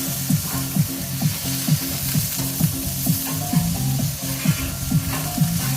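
Chicken burger patties and string beans sizzling on a hot flat top griddle, a steady frying hiss. Background music with a steady beat of about two thumps a second plays under it.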